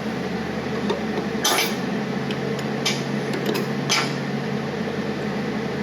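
Metal parts and tools being handled on a workbench: about five separate metallic clinks and clanks, the loudest about one and a half seconds in, over the steady hum of a shop fan.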